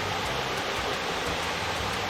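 Steady rushing of water pouring down a small waterfall, an even hiss with no breaks.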